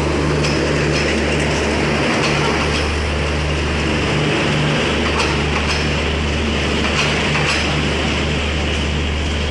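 Passenger coaches of an express train running past at speed: a loud, steady rumble of steel wheels on rails, with sharp clacks every second or so as the wheels cross rail joints.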